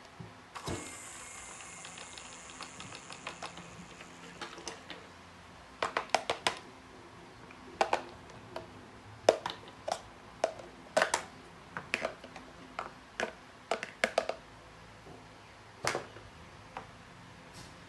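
Irregular sharp clicks and taps of small hard objects, many in quick clusters. Near the start a high, steady whine with fast ticking runs for about three seconds.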